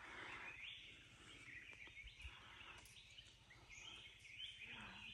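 Faint forest ambience with small birds giving short chirping calls that step upward in pitch, repeated several times.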